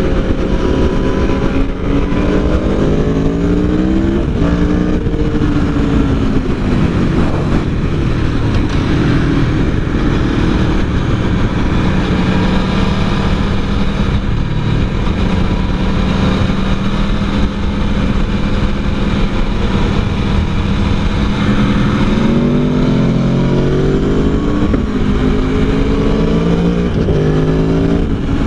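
Aprilia Tuono V4 1100's V4 engine under hard riding on track: its pitch steps up and down with gear changes in the first few seconds and again near the end, and holds steady through the middle. Steady wind and road noise runs under it.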